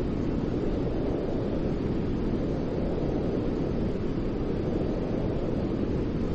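Steady, even noise played as a baby-sleep sound, deep and muffled rather than hissy, with most of its weight in the low range and no change in level or pitch.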